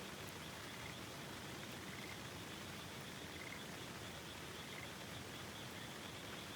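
Steady rush of river water, with frogs calling faintly over it: short single calls every second or so, plus a thin steady high chorus.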